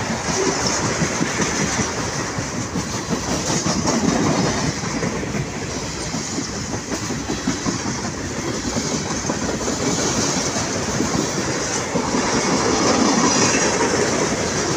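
Freight train of tank cars rolling past close by: a steady rumble of steel wheels on rail with a rapid clatter over the rail joints, swelling a little twice.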